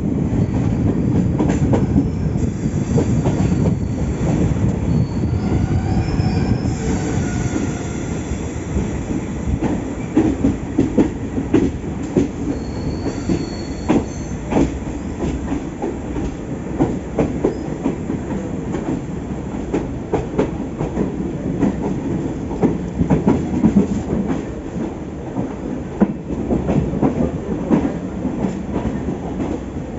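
Passenger train running along the track, heard from on board: a steady rumble with irregular clicks and clacks from the wheels over rail joints. Faint high wheel squeal rises a few seconds in and again about halfway through.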